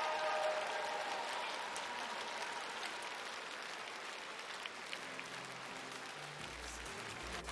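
Audience applauding, slowly dying down. The last notes of music fade out in the first second, and low music notes start in near the end.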